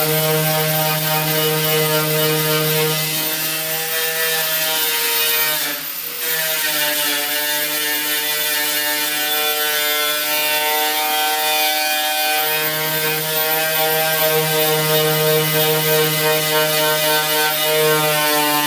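Power tool spinning up and running steadily with a paint- and rust-stripping wheel against the truck's sheet metal, with a high whine and a steady hum; the note dips briefly about six seconds in, then carries on.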